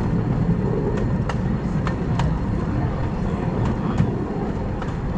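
Redwood Valley Railway's 15-inch-gauge miniature steam train running: a steady low rumble with scattered sharp clicks and knocks.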